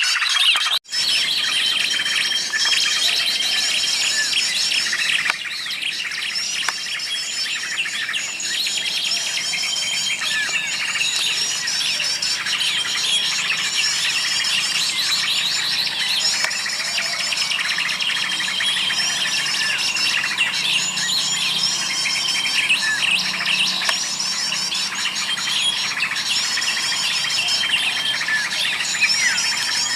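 Many small birds chirping and twittering densely over one another, with a short call that recurs every few seconds. The sound cuts out briefly about a second in.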